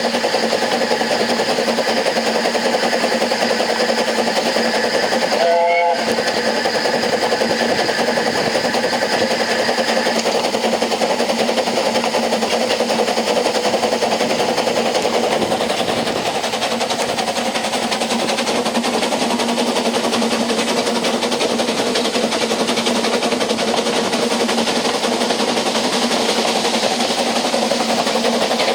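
A narrow-gauge passenger carriage running along the track: a steady rumble and rattle of wheels on the rails, with steady high tones over it for the first third. There is a brief break in the sound about six seconds in.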